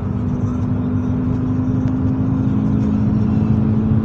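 Car driving on the road, heard from inside the cabin: a steady rumble of engine and tyre noise with a hum whose pitch drifts slightly lower while the sound grows a little louder.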